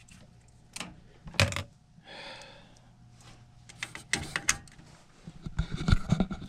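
Scattered sharp clicks and light metallic clatter of tools and parts being handled, with a loud click about a second and a half in and bunches of clicks around four and six seconds in.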